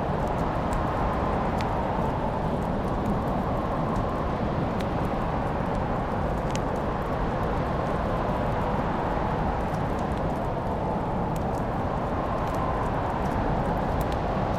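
Wood fire crackling: scattered sharp pops and ticks over a steady low rushing sound.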